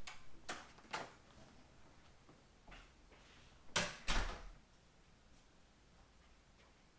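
A few short knocks and clunks, the two loudest close together about four seconds in.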